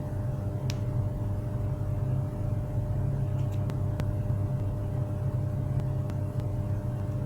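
A steady low machine hum with a few steady tones above it and a handful of faint clicks.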